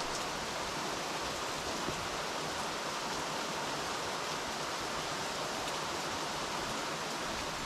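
Steady rush of flowing water in a mountain stream, an even hiss with no breaks.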